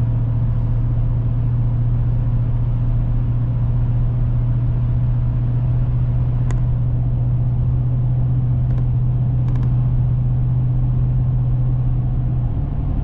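Chevrolet Silverado pickup cruising at a steady speed: a steady low engine and exhaust drone, its pitch stepping up slightly near the end.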